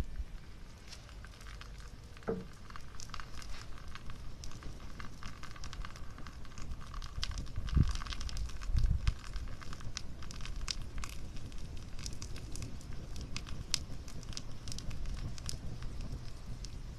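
Wood fire crackling in a small fire pit made from an empty cookie tin, with frequent irregular sharp pops. A few dull low thumps come at the start and at about eight and nine seconds in.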